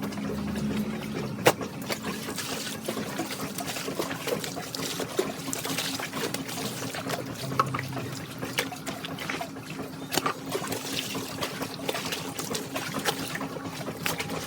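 Water running and trickling, with a faint steady hum under it and a couple of sharp knocks, one about a second and a half in and one about ten seconds in.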